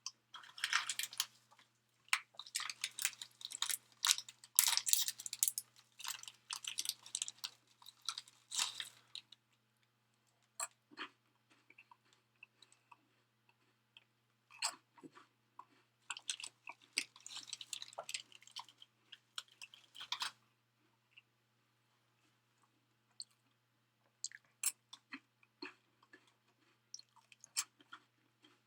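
A person chewing and crunching food, in two long bouts of crunching with scattered single crunches and mouth clicks between them.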